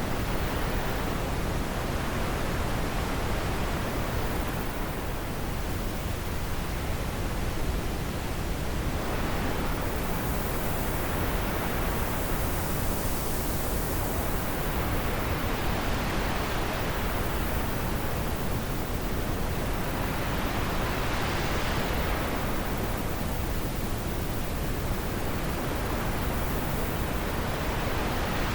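Wind blowing in a steady rushing hiss that swells and eases in slow gusts every few seconds.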